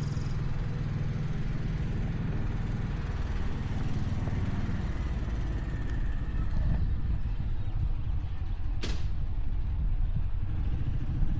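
Steady low engine rumble, with one short, sharp sound about nine seconds in.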